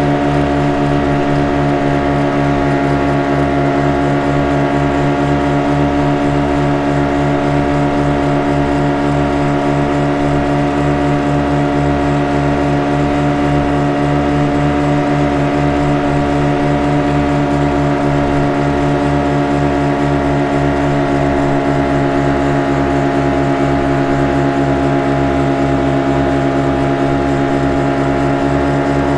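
Motorboat engine running at a steady, unchanging speed: a constant humming drone over a fast, deep throb.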